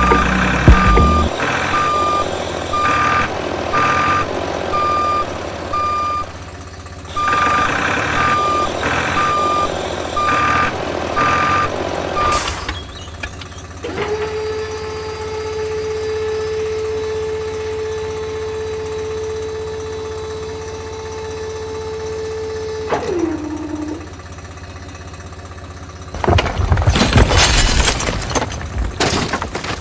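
Electronic reversing-alarm beeps, evenly spaced, in two runs with a short break. Then a steady electric hum that drops in pitch and stops about 23 seconds in, and a loud, noisy clatter near the end.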